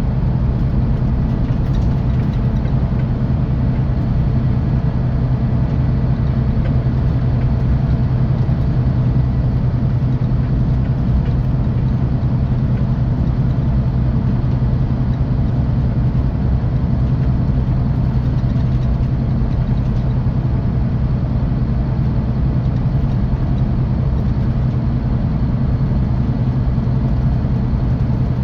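Scania K450 coach's 13-litre straight-six diesel running steadily, heard from inside the bus as an even low hum with road noise.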